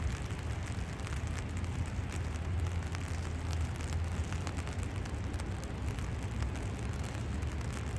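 Steady rain falling, with faint scattered drop ticks, over a low steady rumble.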